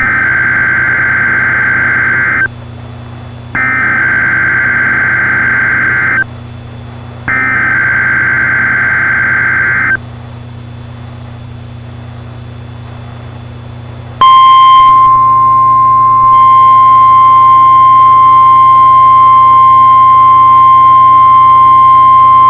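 Weather-radio emergency alert: three loud warbling digital SAME header bursts, each about two and a half seconds long with a second's gap between them. A few seconds of low hum follows, then a long, loud 1050 Hz alarm tone starts about 14 seconds in, signalling an incoming National Weather Service flood watch.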